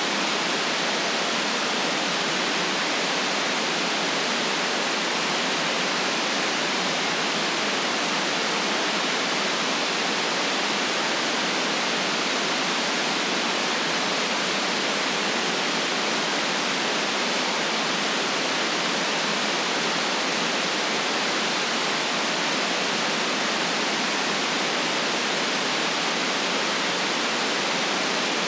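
Steady synthetic noise played as a relaxation track, an even hiss that does not change, with the deep bass and the highest treble cut off.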